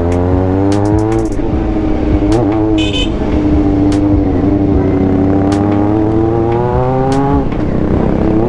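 Honda CB-1's 400cc inline-four engine accelerating under way. Its pitch climbs and drops sharply at an upshift about a second in, climbs again for several seconds, and drops at a second gear change near the end.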